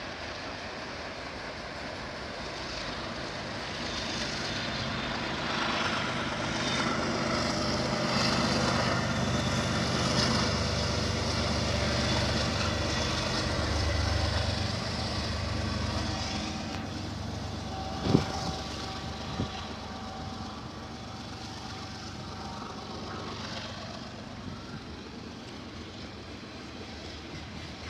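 Diesel freight train passing: a broad rumble with deep engine drone that builds, peaks and then eases off, with two sharp knocks partway through.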